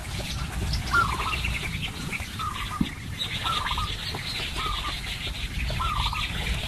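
Birds calling: a short call repeated about once a second, over higher twittering.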